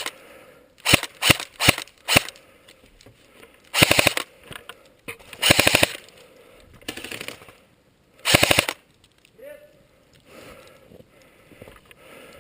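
Airsoft gun firing: a few single shots in the first two seconds, then four short full-auto bursts of rapid, evenly spaced shots, the third fainter than the others.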